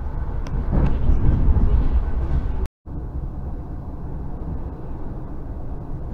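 Steady rumble of an electric commuter train running, heard from inside the carriage. It cuts out completely for a moment just under three seconds in, then carries on a little quieter.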